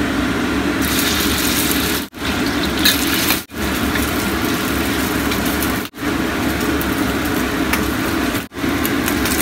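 Diced canned ham sizzling and crackling in hot oil in a wok as it is stirred, over a steady mechanical hum. The sizzle starts about a second in as the ham goes in, and the sound cuts out briefly four times.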